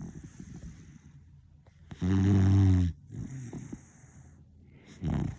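A sleeping beagle snoring: one loud, low snore lasting about a second, softer breathing after it, and another snore starting near the end.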